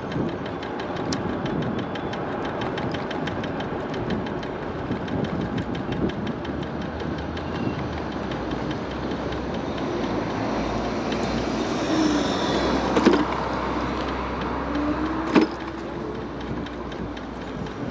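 Riding noise of a moving seated electric scooter: steady tyre and road noise with a fine rattle, and a low rumble that strengthens past the middle. Two sharp knocks come a couple of seconds apart in the latter part.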